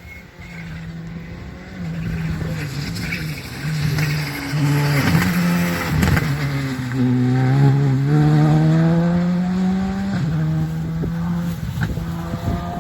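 Rally car engine at full throttle passing on a special stage, its note climbing and then dropping at each quick gear change. It gets louder up to a peak in the middle and then fades away, with a sharp crack about six seconds in.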